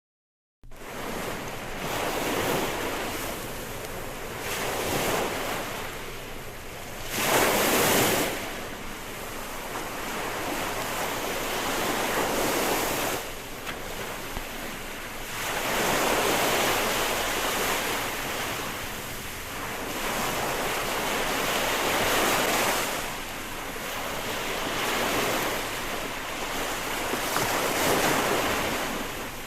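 Ocean surf: waves rush in and wash back one after another, each swell rising and fading over a few seconds, the loudest about seven seconds in. It starts abruptly from silence just after the beginning.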